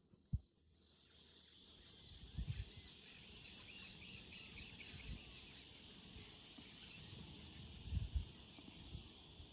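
Faint outdoor ambience of insects and birds: a steady high-pitched insect hum with small bird chirps over it, coming in about a second in, with a few soft low thumps.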